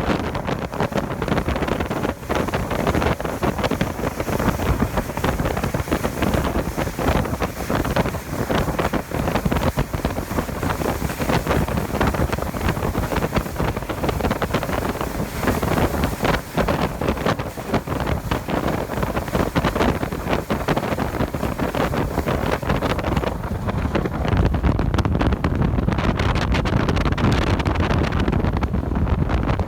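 Strong wind buffeting the microphone in a storm, a loud uneven rushing with no pauses.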